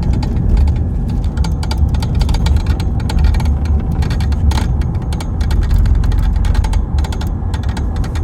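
Fast, irregular metallic rattling from the center console area of a 2016 BMW 320d under acceleration, heard inside the cabin over the low drone of the moving car. The rattle is the handbrake cable, loose from its broken bracket, striking the propeller shaft.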